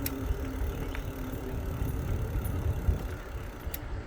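E-bike rolling fast along a paved trail: wind rumbling on the microphone over a steady motor hum, with a few light clicks and rattles from the bike.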